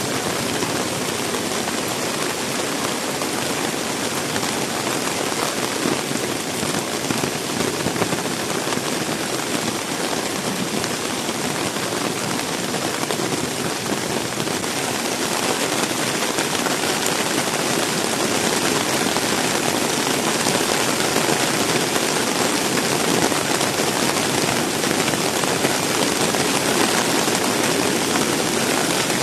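Heavy rain falling in a steady downpour, a little louder in the second half.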